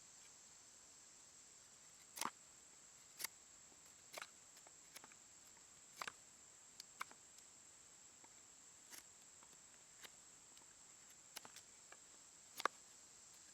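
Faint, irregular clicks and taps over a steady hiss, about one every second or so, with the loudest near the end: wood and bow drill gear being handled.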